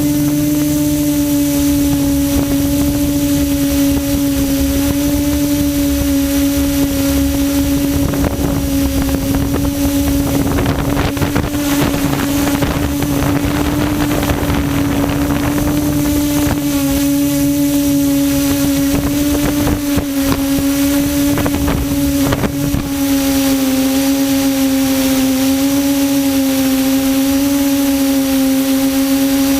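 QAV400 quadcopter's electric motors and propellers humming steadily on one pitch in flight, the pitch wavering slightly and shifting a little about two-thirds of the way through. Wind rushes on the microphone through the middle stretch.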